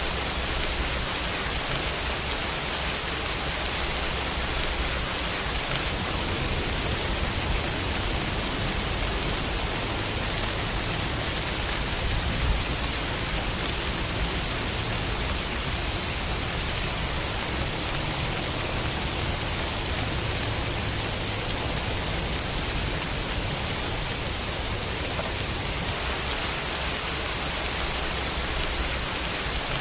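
Steady, dense rainfall hiss. A low rumble swells through the middle.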